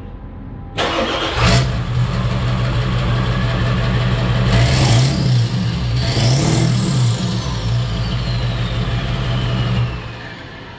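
Ford 7.3 Power Stroke turbo-diesel V8 on open exhaust with the muffler cut off: it cranks and starts about a second in, idles, and is revved twice. After the second rev a turbo whistle winds down, falling in pitch, and the engine shuts off near the end.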